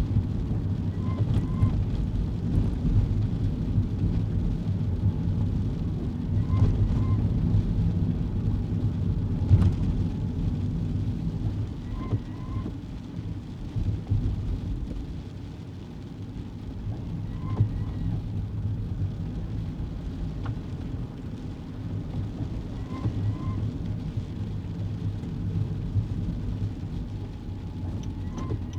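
Cabin noise of a kei car driving on a wet road: steady low tyre and engine rumble. A faint short two-note squeak comes back about every five and a half seconds, like windscreen wipers on the intermittent setting, with a single sharp click about ten seconds in.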